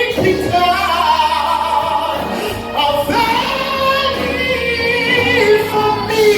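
Gospel singing: a solo voice holds long notes that slide between pitches, over instrumental accompaniment.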